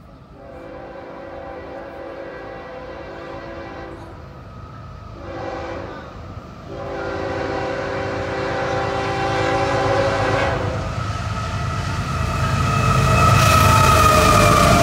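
A CSX freight train led by an ES44AH approaches, sounding its air horn in three blasts: long, shorter, long. The horn stops about two-thirds of the way in, and the rumble of the GE diesel locomotives and their wheels then grows loud as they pass close by near the end.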